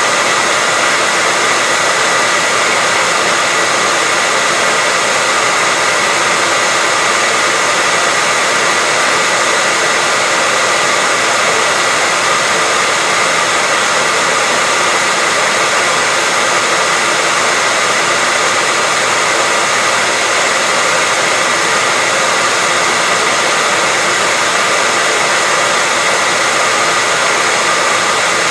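Handheld hairdryer running steadily: an even rush of blown air with a steady high whine from its motor and fan.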